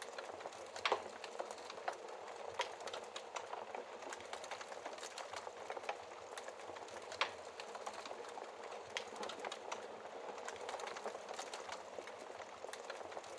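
Wood fire in a fireplace crackling: a steady soft hiss of burning with frequent small snaps and a few louder pops, one about a second in and another near the middle.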